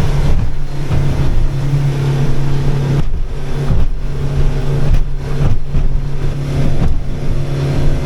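C-Dory 22 cabin cruiser under way, its engine running steadily at cruising speed with wind and water noise, and a few sudden knocks about three and five seconds in.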